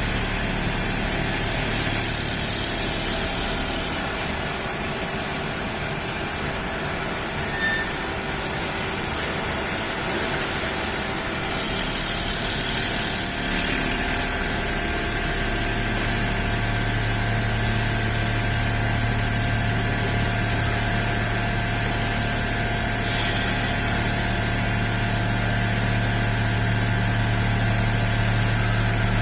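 CNC foam cutting machine running, a steady mechanical hum with a high hiss that sets in and drops out again several times, and a deeper hum that grows stronger about halfway through.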